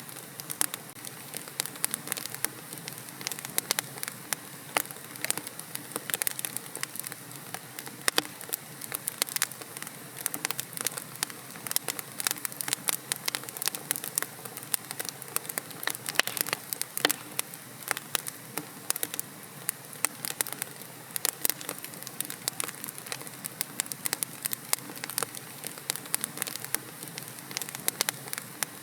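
Wood fire in a fireplace, burning logs crackling and popping: a steady soft hiss with many sharp snaps, several a second.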